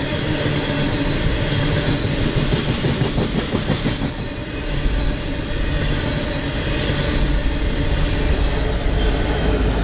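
BNSF freight train rolling past: a steady, loud rumble of steel wheels on rail, with rapid clicking of wheels over the track partway through.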